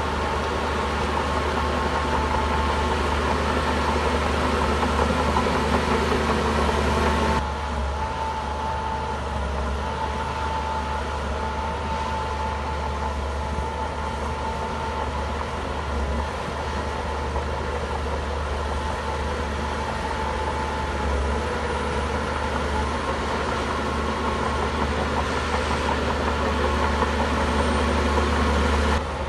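Heavy diesel engine of a Shantui bulldozer running steadily, with a steady whine above its low drone; the sound changes abruptly about seven seconds in.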